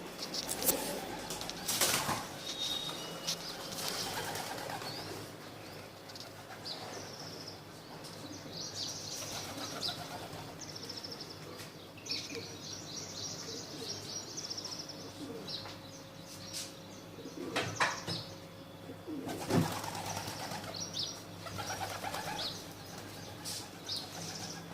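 Birds flapping their wings in a few sudden bursts, with high chirping in between.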